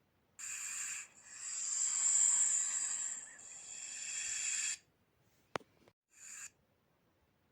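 Snake hissing: a short hiss, then a long hiss that swells and fades over about three and a half seconds, a sharp click, and another brief hiss.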